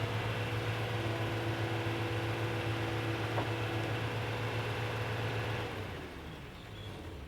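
Motor of a remote-control construction vehicle running steadily with a low hum and a thin whine, cutting off about six seconds in, leaving a fainter hum.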